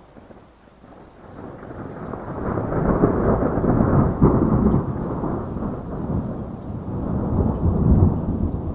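Thunder rolling over steady rain: a low rumble builds from about a second in, peaks twice, and keeps rumbling through the rest.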